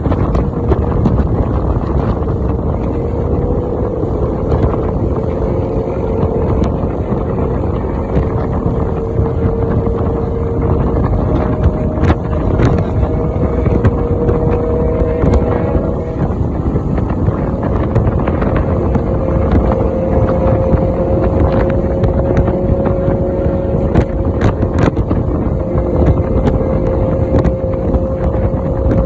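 Motorcycle engine running at a steady cruising speed, heavy wind buffeting the microphone. The engine note holds nearly constant and shifts slightly about halfway through.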